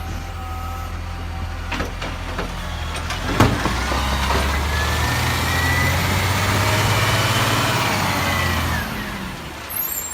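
Garbage truck engine running, with a sharp knock about three and a half seconds in. From about four seconds the engine comes up with a high whine that holds and then dies away shortly before the end.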